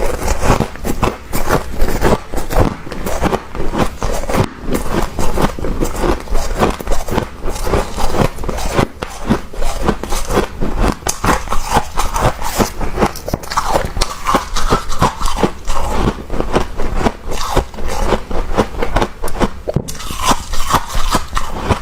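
Soft, fluffy freezer frost, grown with a humidifier, being scraped and crunched in rapid strokes, several a second, without pause.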